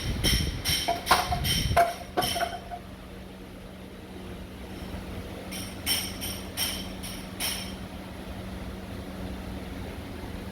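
Two bursts of light metallic jingling, about four to five strokes a second, the first in the opening couple of seconds and the second starting around six seconds, over a steady low hum.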